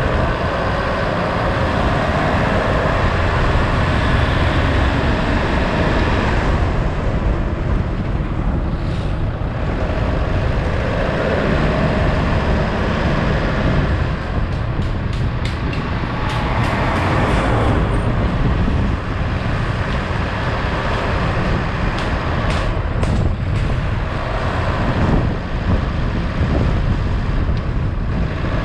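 Steady vehicle and road noise from a drive, with a few brief knocks past the middle.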